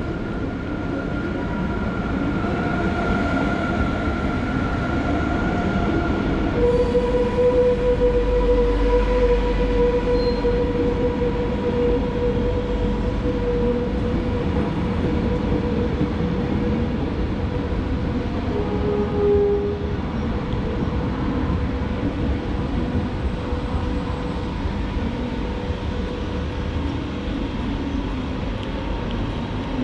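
SBB intercity electric train pulling into the station and rolling slowly past along the platform, with a steady rumble and whining tones. The whine drops to a lower pitch about seven seconds in, as the train passes loudest, and a brief squeal sounds near twenty seconds.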